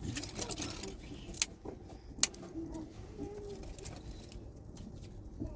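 Light metallic clinking and rattling of household utensils, with two sharp clinks, one about one and a half seconds in and one a little past two seconds.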